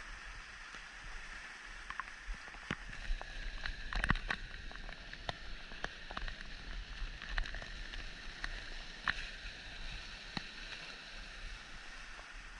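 Rushing stream water with irregular short splashes and knocks through it, busiest a few seconds in.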